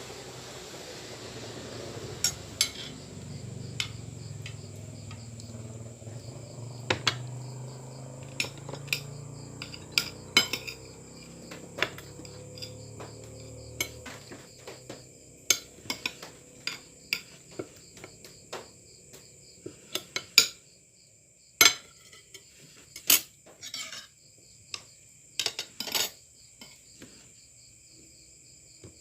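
Cutlery clicking and clinking against a plate in irregular, sharp strikes, with crickets chirping steadily in the background. A low hum stops about halfway through.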